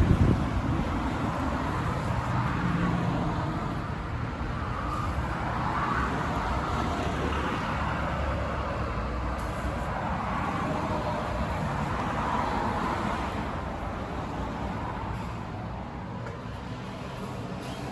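Steady rumble of passing motor vehicles, with a sharp knock right at the start.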